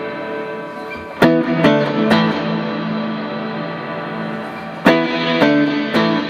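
Clean electric guitar played through a Boss RV-6 digital reverb and Boss GE-7 equalizer into Roland JC-120 amps. Two groups of three struck chords, about a second in and about five seconds in, ring out over a sustained, reverb-washed chord.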